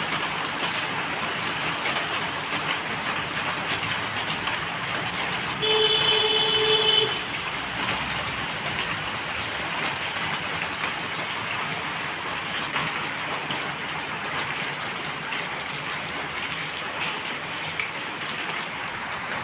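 Heavy rain pouring steadily onto surfaces. About six seconds in, a horn sounds once, held for about a second and a half and louder than the rain.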